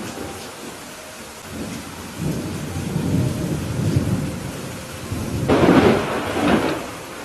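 Rain falling steadily through a thunderstorm. A low thunder rumble builds about two seconds in, then a louder, sharper thunderclap comes near the end and fades.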